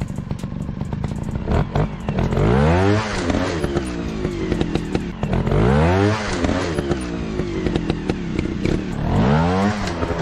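Dirt bike engine revving up and back down three times over its running note, with frequent sharp clicks and clatter.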